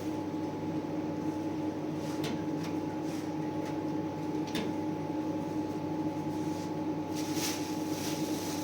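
A steady mechanical hum holding two even tones, with a few faint clicks over it.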